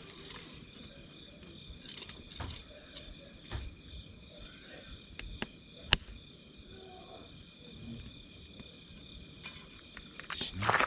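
Wood fire crackling, with scattered sharp pops, one loud pop about six seconds in and a louder cluster of crackles near the end. Crickets trill steadily in the background.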